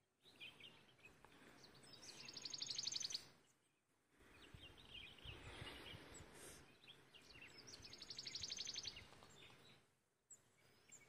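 A bird singing: two high, fast trills, each swelling in loudness over about a second, some five seconds apart, with softer chirps between them.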